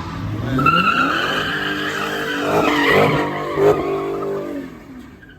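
A car's engine revving up and its tyres squealing in a burnout, a high steady squeal lasting a couple of seconds. The engine then holds its revs and fades away near the end.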